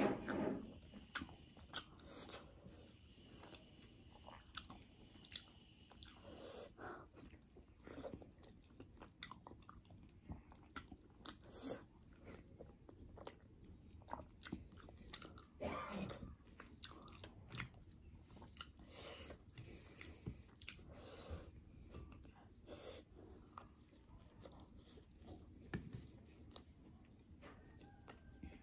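A person chewing and biting steamed momo dumplings with the mouth close to the microphone, making many irregular wet clicks and smacks.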